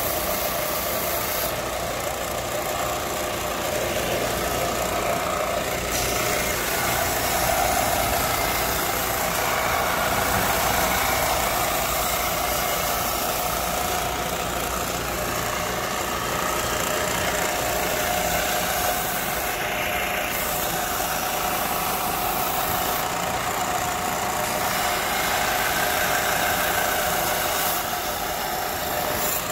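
A motor running steadily and without a break, its pitch shifting slightly now and then.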